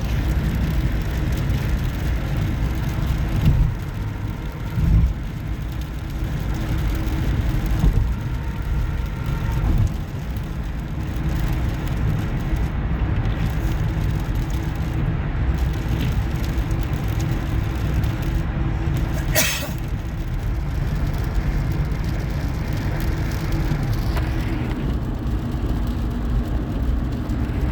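Steady low rumble of a car driving at road speed, heard from inside the moving car, with one brief sharp click about two-thirds of the way through.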